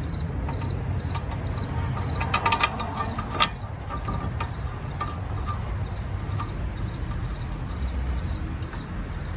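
Cricket chirping steadily, about two short high chirps a second. A few metallic clinks of tools and parts come between about two and three and a half seconds in, the sharpest at the end.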